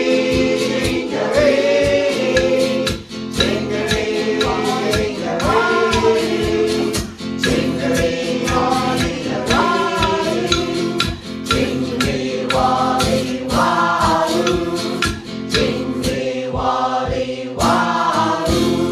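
A choir singing in the Yugambeh language over a steady rhythmic instrumental accompaniment.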